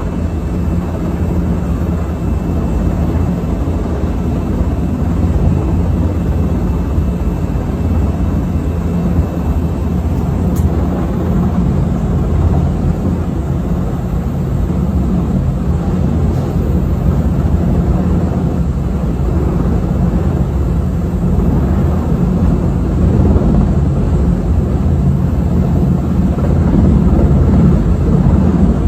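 Helicopter running overhead: a loud, steady low drone of rotor and engine that grows slightly louder near the end.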